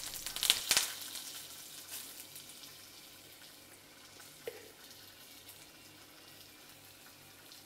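Curry powder, garlic and Scotch bonnet pepper sizzling in hot coconut oil in a nonstick frying pan. A burst of crackling in the first second dies down to a faint hiss.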